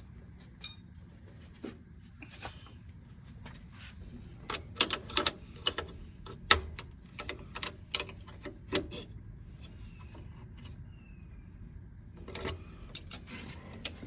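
Metal hand tools clinking and clicking against fittings, as a wrench is worked on the golf cart. The sharp clicks come in irregular clusters, starting about four seconds in and again near the end.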